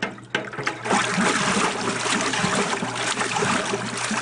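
Kenmore wringer washing machine switched on to pump its water out: a few clicks, then about a second in water starts gushing steadily from the drain hose, over the steady hum of the machine's motor.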